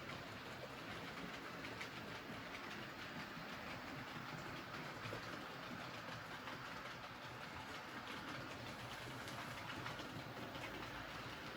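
Model train rolling along the layout track: a steady, fairly quiet rolling noise with faint, irregular clicks of the wheels over the rail joints.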